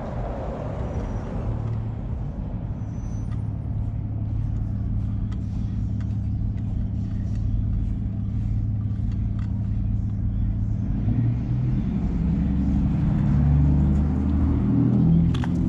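A motor vehicle engine running with a steady low hum, and a few light metallic clinks. About two-thirds of the way through the hum grows louder and shifts in pitch.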